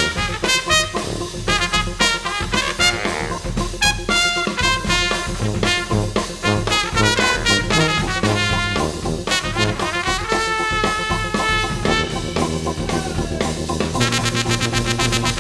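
Jazz brass ensemble playing: trumpets, baritone saxophone and tuba over a drum kit, with a moving melody over a walking bass line. The band grows fuller near the end.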